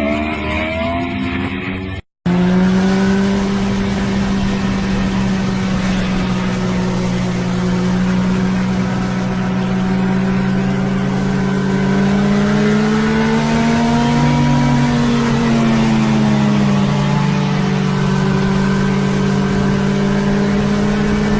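Motorcycle engine running at a steady speed. After a brief cut about two seconds in, the engine note holds nearly even, rises gradually past the middle, then settles back.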